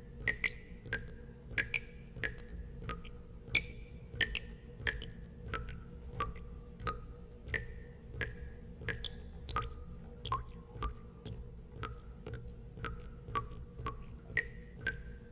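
Water drops falling one at a time into water, each a short plink with a slight drop in pitch, about two a second at uneven intervals, over a low steady hum.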